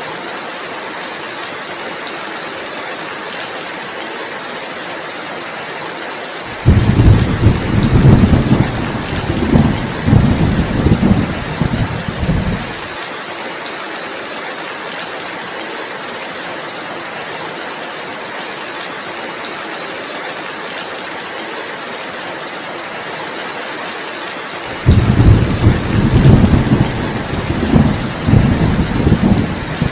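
Steady heavy rain, with two low rumbles of thunder, one about seven seconds in and another about twenty-five seconds in, each lasting around six seconds and louder than the rain.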